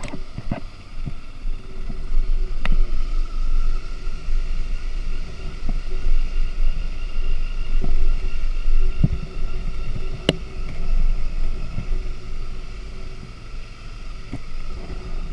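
Honda motorcycle running steadily while riding, under a heavy low wind rumble on the microphone, with a few sharp knocks scattered through.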